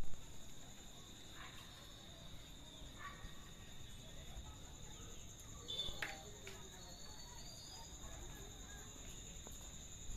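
Steady, high-pitched insect chorus of crickets or cicadas, with a few faint short calls scattered through it.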